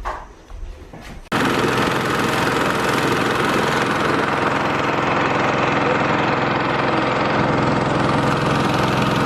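Small boat motor running steadily at a constant speed, cutting in suddenly about a second in.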